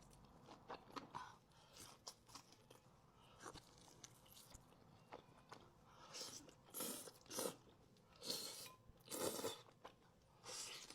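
Faint crunching bites and chewing of fried chicken wings, in irregular bursts, the louder ones in the second half.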